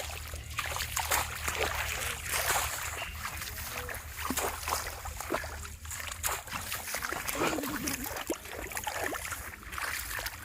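Shallow water splashing and sloshing in irregular, uneven bursts, with a steady low hum underneath.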